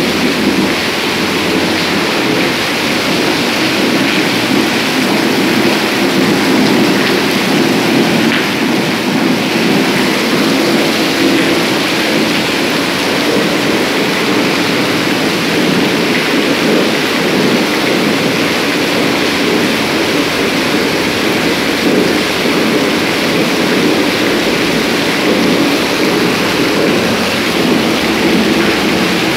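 Heavy rain pouring down in a steady, loud, unbroken rush.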